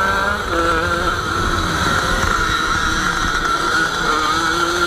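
Small two-stroke engine of a Jawa 50 Pionýr racing motorcycle, heard onboard, running hard under throttle. Its pitch dips and rises as the throttle is worked.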